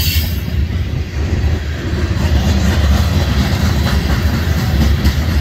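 Freight train of covered hopper cars rolling past at close range: a steady low rumble of steel wheels on the rails, with a few faint wheel clicks.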